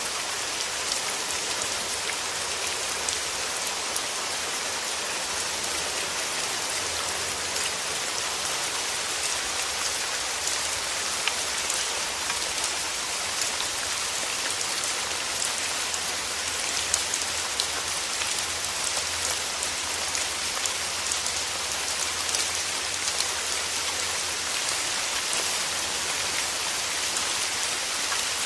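Steady rain falling, with many individual drops ticking sharply on a surface over a constant hiss.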